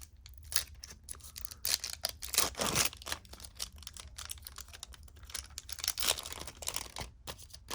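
Trading cards being handled and flipped through: a quick, irregular run of small clicks and rustles as the card stock slides and snaps against itself.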